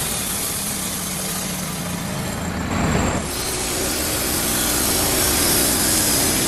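Engine-driven machinery running steadily, with a brief change in the sound about two and a half seconds in.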